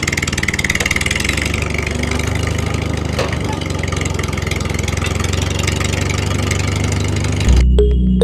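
An engine running steadily at idle, with no change in speed. Near the end it gives way to electronic music.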